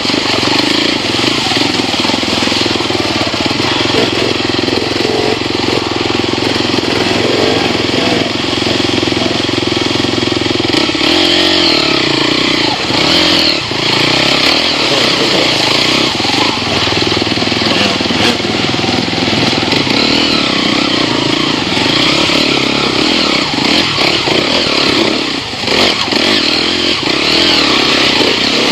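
Enduro dirt bike's engine running loud and continuous while riding a rocky trail, its pitch wavering up and down with the throttle. The sound dips briefly twice, about 13 and 25 seconds in.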